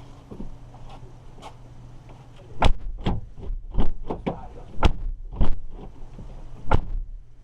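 About six sharp clunks and knocks from work on a car door, spread over a few seconds above a steady low hum.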